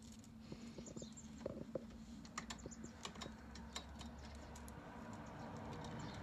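Irregular light clicks and taps of small parts being handled: wiring and plastic connectors being routed and pushed together inside a stairlift carriage.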